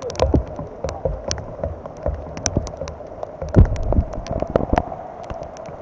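Rain with raindrops tapping irregularly on the camera right at the microphone, a scatter of sharp ticks over a steady wash, with a few heavier low thumps.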